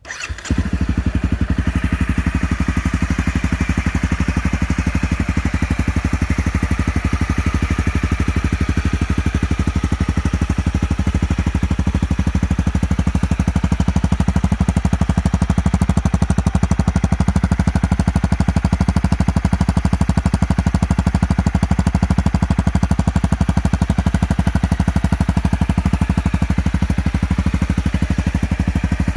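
2017 Honda CRF250M's single-cylinder engine starting and settling at once into a steady idle, with even exhaust pulses.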